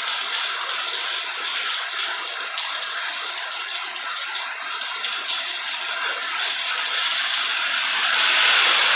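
Steady rain falling, an even hiss of many drops, growing a little louder near the end.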